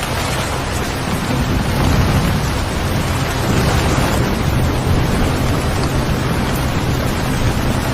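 Steady heavy rain, with a low rumble underneath that swells a little about two seconds in.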